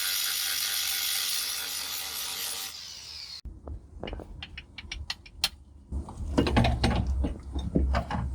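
A fading wash of noise ends the intro music in the first three seconds or so. Then come irregular sharp clicks and knocks of hand work on metal parts.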